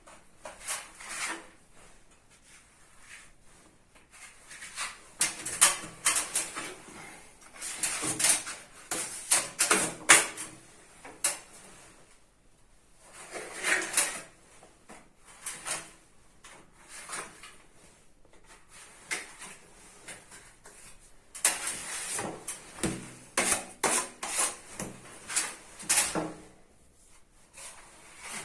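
Steel putty knives, an 80 mm and a 250 mm, scraping wet filler across a primed wall in groups of short strokes with pauses between, as the first coat is spread and the excess taken off.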